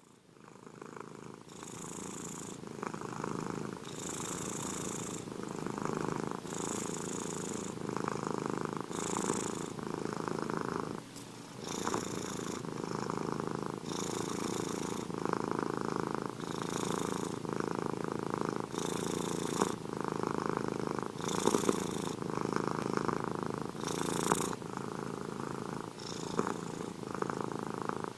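Domestic cat purring steadily and close up, the purr swelling and easing with each in- and out-breath about every second or so. It fades in over the first couple of seconds.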